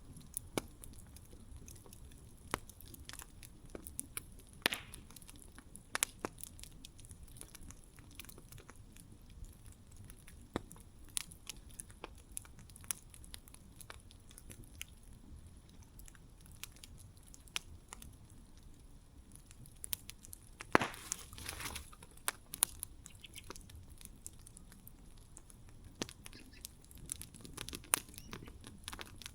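Campfire burning with irregular crackles and sharp pops over a low, steady rumble of the flames, with a brief cluster of louder pops a little after two-thirds of the way through.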